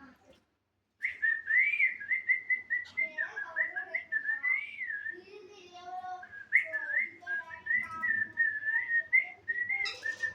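Cockatiel whistling a warbling song of quick rising and falling notes, starting about a second in.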